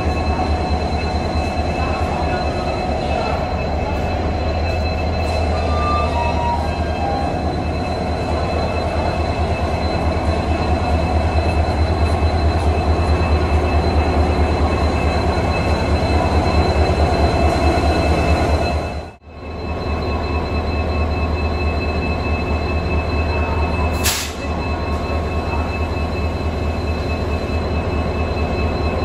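Passenger train running, heard on board: a steady rumble of wheels on track with a thin, steady high squeal over it. The sound drops out for a moment about two-thirds of the way through, and there is a short hiss a few seconds later.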